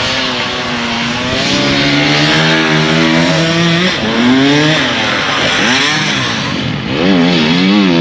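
Motorcycle engines revving on a sand track, the pitch climbing and dropping with the throttle and gear changes, with quick up-and-down revs near the end.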